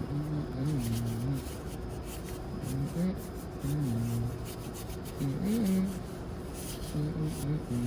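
Brush scrubbing and rubbing over engine-bay parts with a rasping sound while degreaser is worked in. A man's low voice comes and goes in short phrases over it.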